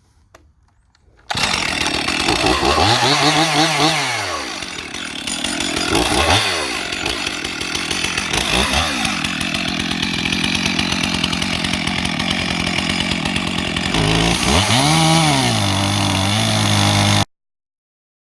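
Chainsaw running hard: it starts suddenly about a second in, its engine speed swells and drops several times with a steadier stretch between, and it cuts off abruptly near the end.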